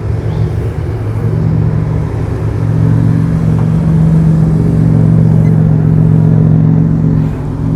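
A car engine running close by with a steady low rumble, growing louder about two and a half seconds in and holding.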